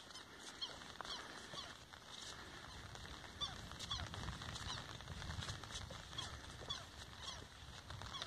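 A bird calling over and over, faintly: short high chirps repeated about once or twice a second.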